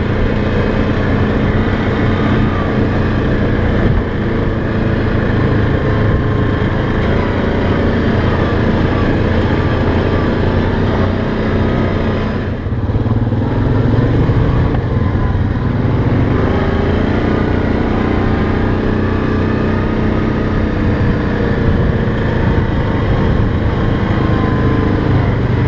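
Off-road vehicle engine running steadily on a trail ride. The sound dips briefly about halfway through, then the engine pitch shifts over the next few seconds.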